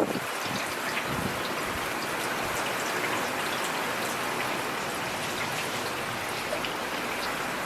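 Heavy rain falling steadily, a dense even hiss with scattered drops ticking through it. A single sharp tap right at the start is the loudest moment.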